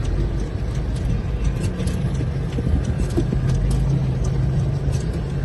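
Car running in traffic, heard from inside the cabin: a steady low engine and road rumble with a few faint ticks.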